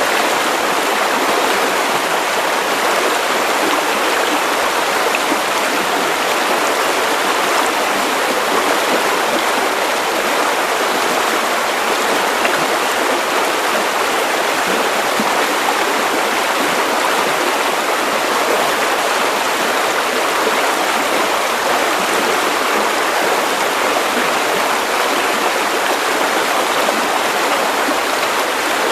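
Steady white noise: an even, unchanging hiss with no rhythm or events, strongest in the middle and upper range and light on deep bass.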